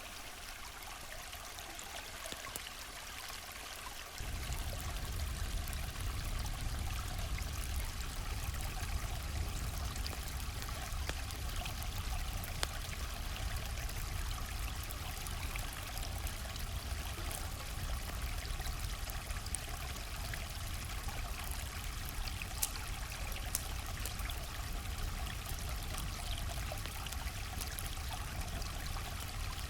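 River water flowing steadily. About four seconds in, a deep low rumble joins and the sound gets louder.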